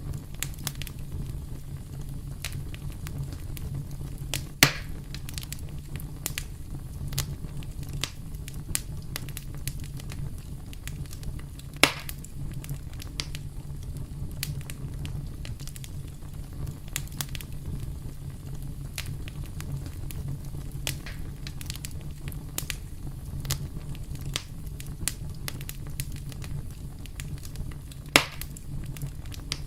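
Campfire burning, with dense irregular crackling over a steady low rumble and three louder pops, about four and a half, twelve and twenty-eight seconds in.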